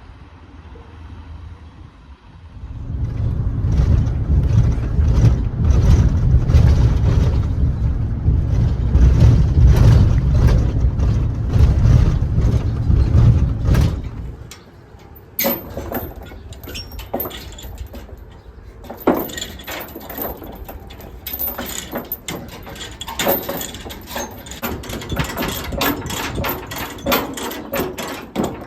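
Deep machine rumble for about eleven seconds, which drops away near the middle, followed by a run of irregular metal clanks and knocks.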